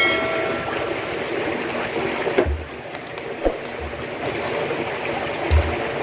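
Steady rushing of running water, with a brief high ringing tone right at the start and a few dull low thumps scattered through.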